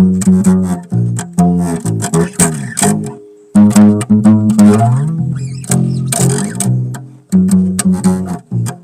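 Bass played solo: a run of plucked, ringing notes with a slide between notes about halfway through and brief pauses between phrases.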